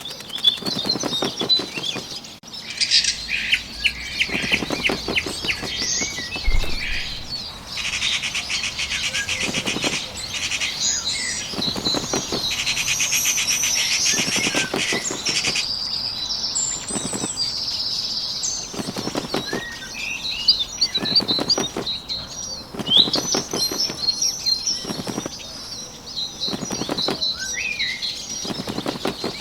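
Bird sound effects: bouts of rapid wing flapping every second or two, with small birds chirping and twittering over them. The chirping is busiest for several seconds in the first half.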